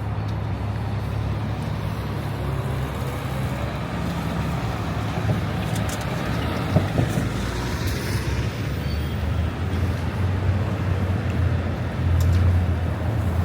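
City street traffic: the steady low rumble of vehicle engines, with a heavy vehicle growing louder near the end.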